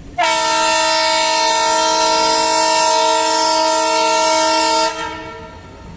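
Air horn of a railway track machine sounding one long, steady blast of several tones together for about four and a half seconds, cutting off sharply.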